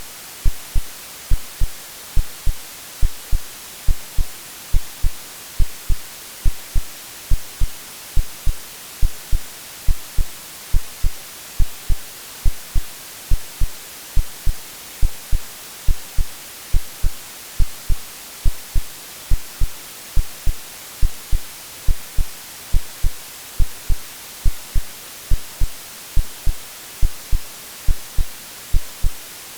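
AI-generated heartbeat sound: a steady low lub-dub pulse about once a second, laid over a constant white-noise hiss.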